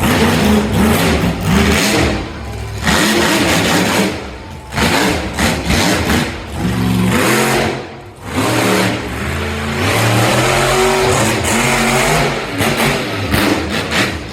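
Monster truck engine revving hard, climbing and falling in pitch again and again, easing off briefly twice.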